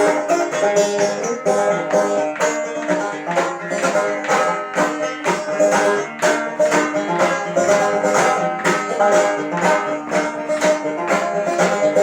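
Banjo picked fast in an instrumental passage of a bluegrass-style song, a steady stream of quick plucked notes.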